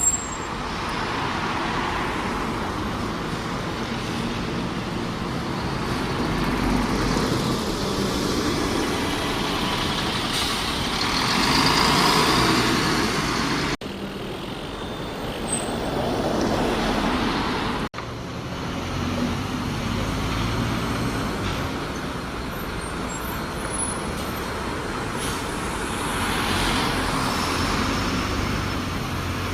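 Road traffic with buses: heavy diesel vehicles running and passing. Two abrupt breaks split it into three stretches.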